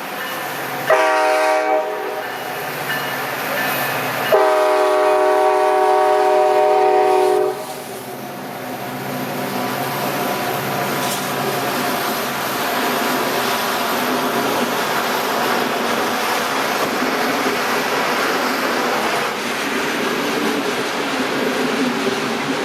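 Alaska Railroad diesel locomotive's multi-note air horn: one short blast, then a long blast of about three seconds. After it, the train runs by with a steady rumble and wheel clatter on the rails.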